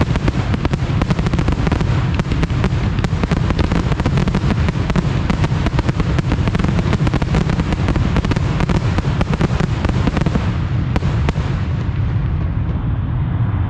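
Professional fireworks display: a dense, rapid barrage of bangs and crackling shells going off close to the microphone. About eleven seconds in the crackling thins and fades, leaving a steady low rumble.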